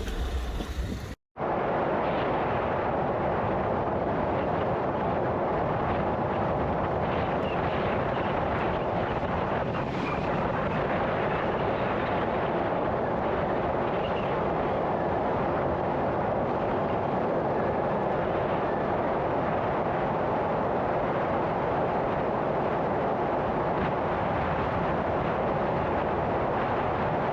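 Steady road and engine noise of a moving vehicle.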